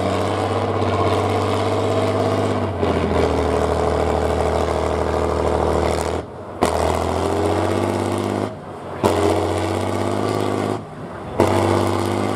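Competition truck's diesel engine running hard under load, its note wavering up and down, cut off abruptly several times and coming straight back.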